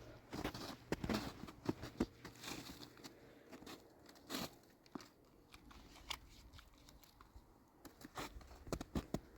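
Handling noise: irregular crinkling and crackling with scattered sharp clicks, busiest in the first two seconds, again at about four and a half seconds, and near the end.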